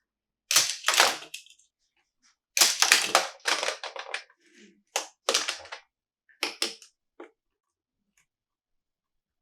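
Plastic toy packaging being handled: five short bursts of crackles and clicks with brief pauses between them, the longest about a second and a half.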